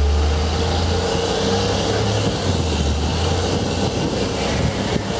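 Parking tram pulling away from a stop and rolling along, heard from aboard one of its passenger cars: a low engine drone that shifts in pitch a couple of times over a steady rolling rumble.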